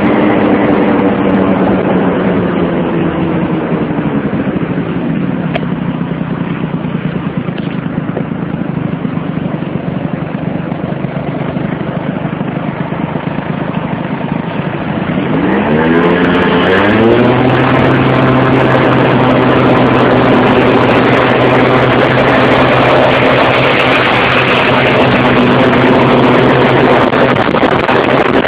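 Motorcycle engine running: its pitch falls over the first few seconds as it slows, runs lower for a stretch, then rises quickly around the middle as it revs up and holds a steady higher pitch to near the end.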